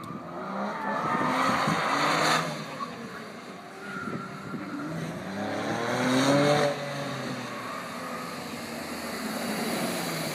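Porsche sports car engine revving hard as it is driven through a tight cone course, its pitch climbing and dropping with the throttle. It swells loudest twice, at about two seconds and about six and a half seconds in, each time cutting back sharply, and then runs steadier and quieter.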